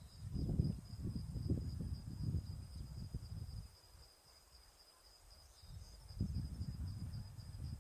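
Gusty low rumble of wind on the microphone, dropping away for a couple of seconds midway, under a steady high-pitched insect trill.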